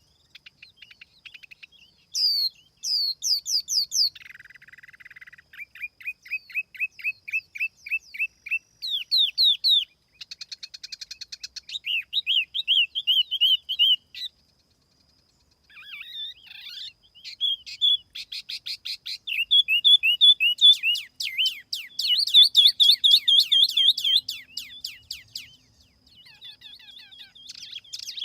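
Tiểu mi songbird singing, a recorded lure call: fast runs of repeated high chirps and trills, phrase after phrase in changing patterns, with a short break about halfway through.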